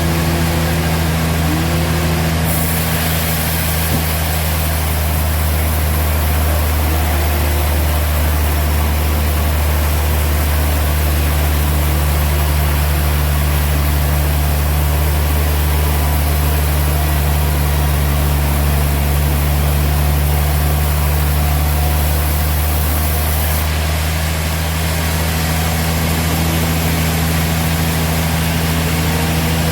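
Sawmill machinery running steadily with a deep, even engine hum. A high hiss joins it a couple of seconds in and stops a few seconds before the end.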